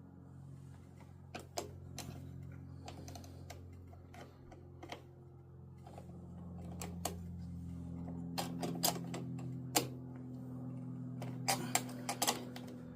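Hand ratchet wrench clicking in short runs as a bolt is turned, over a steady low hum.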